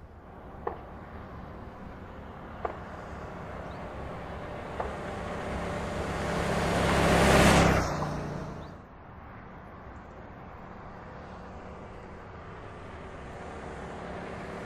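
A car drives by: its engine hum grows steadily louder to a peak about seven and a half seconds in as it passes, then falls away sharply, and starts building again near the end. Three sharp clicks come in the first five seconds.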